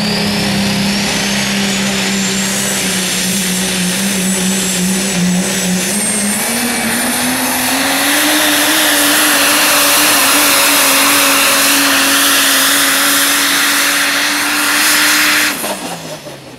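Super stock diesel pulling truck running at full throttle down the track, with a high whine climbing over the first few seconds. The engine pitch rises about seven seconds in and holds. About fifteen seconds in the throttle is cut and the engine winds down as the pull ends.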